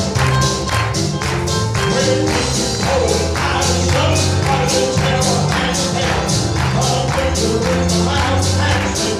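Gospel music with a steady beat: a bass line, held chords and regular percussion strokes about twice a second.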